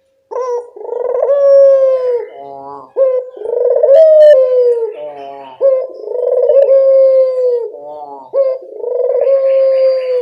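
Barbary dove (burung puter) cooing over and over: long drawn-out coos broken by short quick stuttering notes, repeating about every three seconds.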